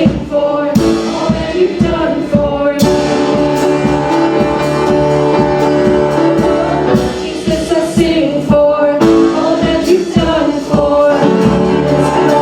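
Worship music: voices singing a gospel-style song over a band with a steady drum beat.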